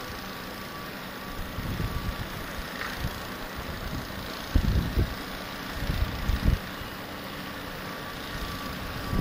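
Blizzard wind rushing steadily, with strong gusts buffeting the microphone in low rumbles about halfway through.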